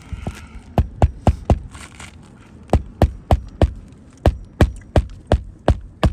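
Hammer driving roofing nails to fasten a replacement roof shingle: sharp blows about three a second, in runs of four to six with short pauses between.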